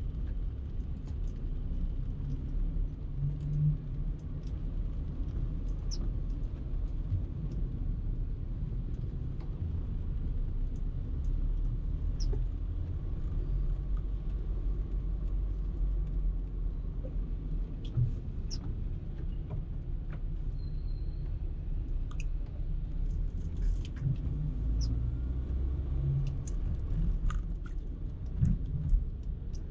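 Steady low rumble of a car driving, heard from inside the cabin: engine and tyre noise, with occasional faint clicks and a few louder knocks near the end.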